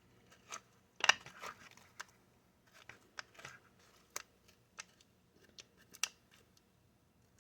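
Seeds being scraped out of a halved canary melon into a paper bowl: irregular short scrapes and taps, the loudest about a second in.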